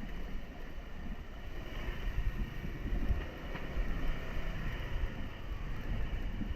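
Honda 125 cc motorcycle riding along, its engine running steadily under a gusty wind rumble on the action camera's microphone.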